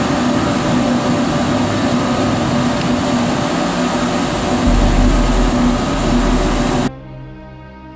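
Biomass pellet burner running: a steady, loud roar with a constant hum, deepening about five seconds in and cut off suddenly near the end by background music.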